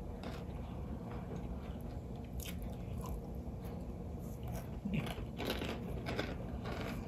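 Close-miked chewing of crisp breaded fried catfish: crunching bites and mouth sounds, with a cluster of louder crunches about five seconds in.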